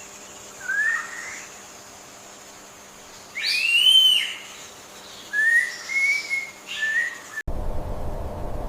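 A series of five short, high whistled animal calls, the loudest a long arched whistle about four seconds in, with three quicker ones after it. Near the end it cuts abruptly to a steady rushing noise.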